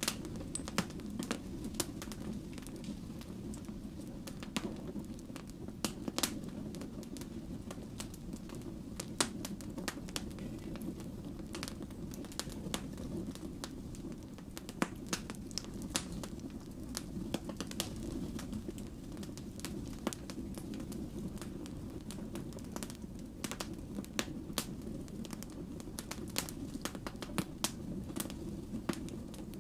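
Wood fire burning, with irregular sharp pops and crackles from the burning logs over a steady low rumble of flame.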